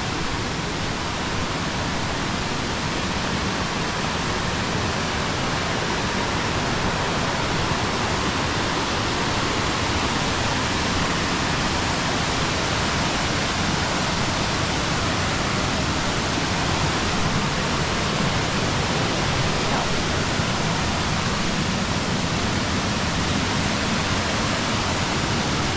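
Waterfall's water rushing and splashing, a steady even roar of falling water.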